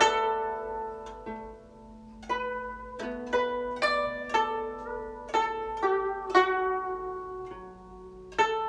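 Guzheng played solo, plucked note by note. One note rings out and fades at the start. About two seconds in comes a run of about a dozen single plucked notes, ending on a few notes left to ring.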